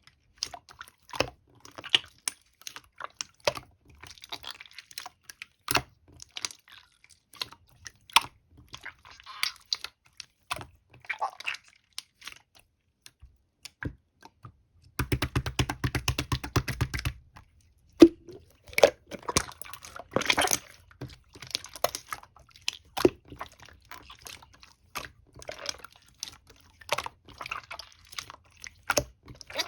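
Red clear slime being squished, poked and stretched by hand, giving sticky clicks and small pops, with a run of rapid clicks about halfway through.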